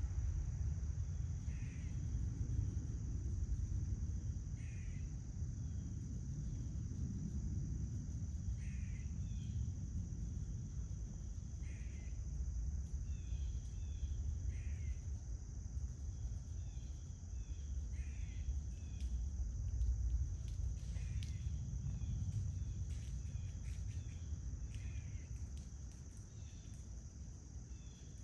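Outdoor backyard ambience: insects trilling in one steady high note, a bird giving short calls every few seconds that come more often in the second half, over a steady low rumble.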